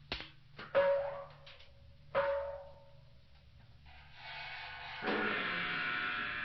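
Percussion soundscape of struck metal: a few sharp strikes that each ring on with a clear tone, then about five seconds in a loud, sustained, gong-like wash of metallic ringing.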